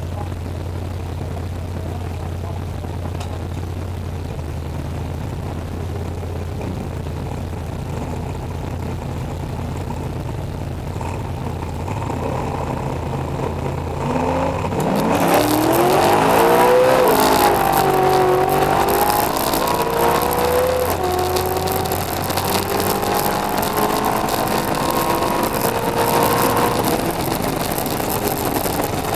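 Pontiac Firebird drag car's engine heard from inside the cabin, idling steadily at the start line. About halfway through it launches at full throttle: the engine note climbs steeply and falls back at two gear shifts as the car accelerates down the strip, then eases off near the end.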